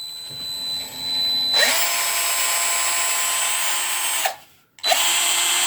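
Black & Decker 18-volt cordless drill running. First it turns slowly. About a second and a half in it spins up and runs at full speed for nearly three seconds, then stops. Near the end there is a second, shorter full-speed run.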